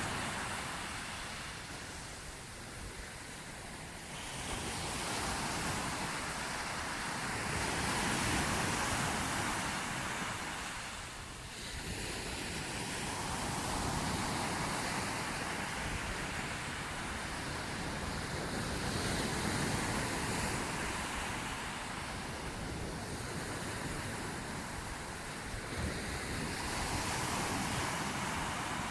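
Sea waves surging onto the shore and washing back, swelling and easing in slow rolls every several seconds.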